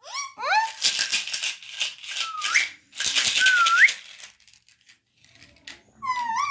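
Pet parrot screeching: short rising whistles, then long harsh rasping squawks with two upward-gliding whistles inside them, and a wavering pitched call near the end.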